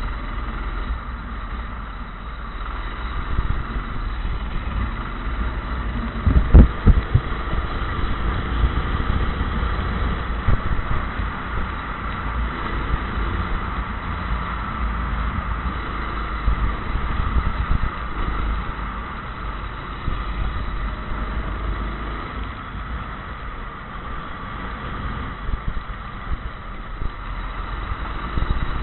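Racing kart engine running steadily with a high, even whine over a low rumble. A cluster of loud thumps comes about six and a half seconds in.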